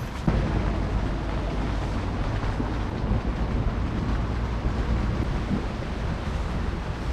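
Heavy rain and wind in a storm, a steady rushing noise with wind buffeting the microphone in a low rumble.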